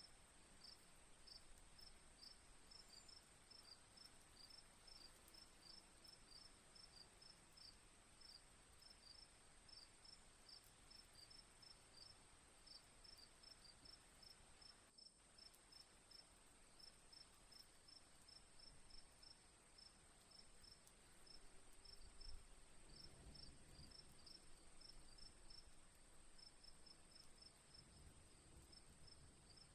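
Faint crickets chirping: quick, evenly repeated short chirps over a steady high insect drone, with a brief break about halfway through.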